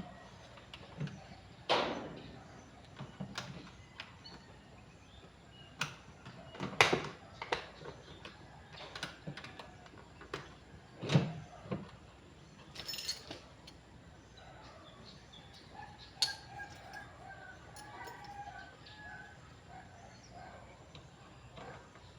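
Scattered sharp knocks and clicks, loudest about two, seven and eleven seconds in. Over the last few seconds come short, quick, repeated bird calls.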